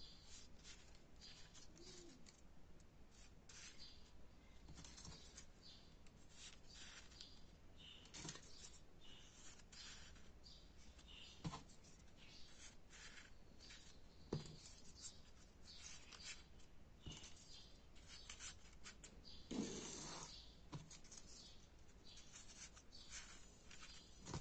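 Faint, irregular rustles and small taps of folded paper origami units being handled and slotted together, with a few sharper clicks.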